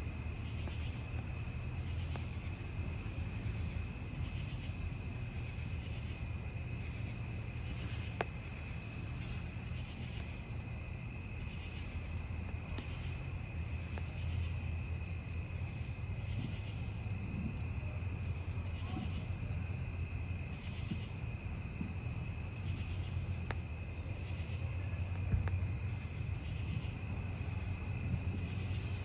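Crickets chirping steadily over a burning wood campfire, whose low rumble sits underneath, with a couple of sharp crackling pops from the burning logs.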